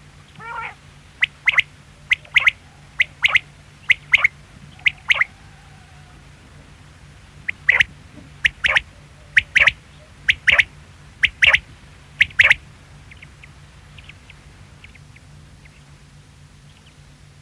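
Quail calling: short, sharp notes given in quick pairs, about five pairs in the first few seconds, a pause, then about six more pairs, each pair about a second apart.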